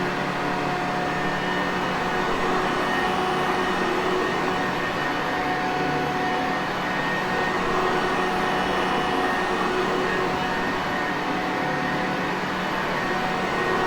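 Sanitaire Perfect vacuum cleaner running steadily: a constant rush of air with a steady whine of several held tones.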